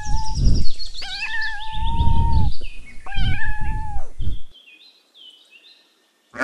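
Kitten meowing repeatedly in high, thin calls, one of them long and drawn out about a second in. The meowing stops about four and a half seconds in.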